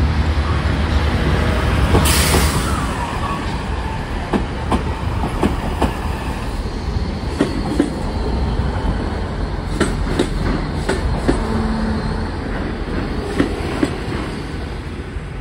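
Diesel train moving with a steady low rumble, its wheels clicking over rail joints. A loud hiss sounds about two seconds in, and the train gets a little quieter near the end.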